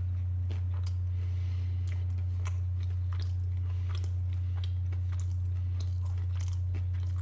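A person chewing a breaded fried chicken tender close to the microphone, with scattered small crunches and wet mouth clicks, over a steady low electrical hum.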